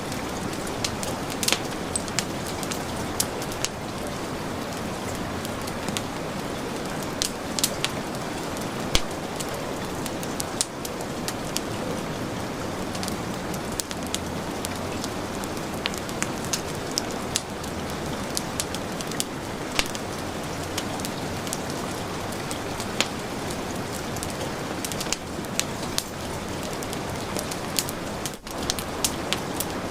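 Heavy rain falling steadily, mixed with a wood fire crackling, with sharp pops scattered irregularly through the rain.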